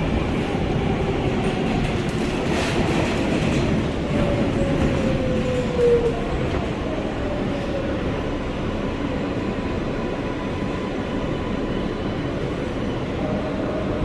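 Inside an R143 subway car on the L line: the steady rumble of the train running on the rails. A faint whine falls in pitch about four to six seconds in.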